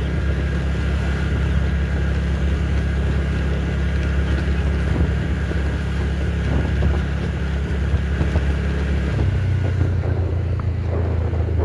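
A vehicle running steadily: a low rumble and hum with wind on the microphone. About nine seconds in, the low hum drops in pitch, and the sound cuts off suddenly at the end.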